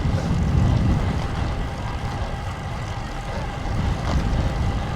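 Wind buffeting a GoPro's microphone on a moving bicycle in strong, gusty wind: a low, uneven rumble that eases a little in the middle and builds again near the end, over the hum of the tyres on the road.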